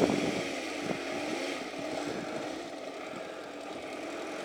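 Yamaha XJ600's air-cooled inline-four engine idling steadily with the choke on, running cold just after being bump-started on a flat battery.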